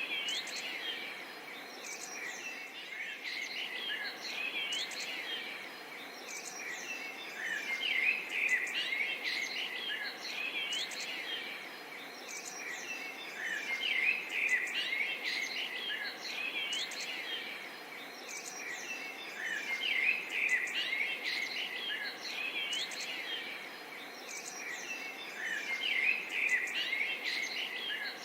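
A dense chorus of many birds chirping and twittering over a steady hum of insects. It swells in loudness about every six seconds.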